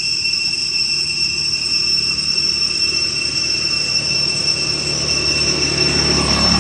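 A steady high-pitched whine that holds one pitch throughout, over a low rumbling noise that grows a little louder near the end.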